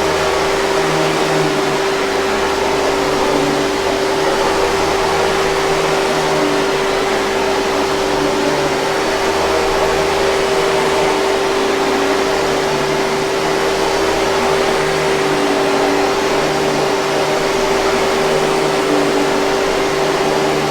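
Hoover 5000 Series canister vacuum cleaner running steadily: a loud, even rush of air with a constant motor whine.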